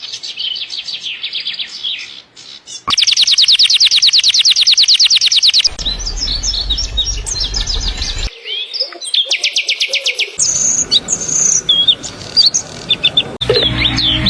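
A string of different songbird clips cut one after another: fast trills of rapidly repeated high notes, broken by stretches of varied chirps and short whistles. Each change of bird comes with an abrupt cut.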